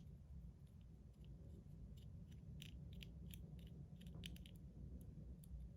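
Faint small clicks and scratches of the metal parts of an EDC slider fidget being handled and worked apart by hand, over a steady low hum.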